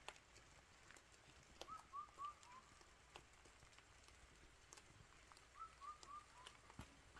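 Faint rain dripping, with a bird calling twice at night: each call a quick run of about four short, slightly falling notes.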